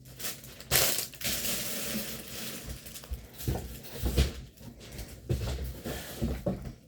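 Plastic packaging crinkling and rustling as it is handled, followed by a run of short knocks and rustles.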